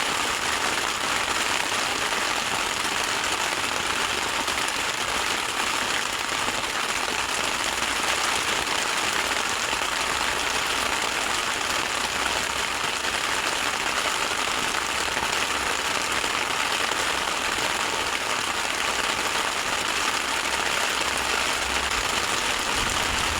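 Steady heavy rain falling without letup, an even hiss with no breaks.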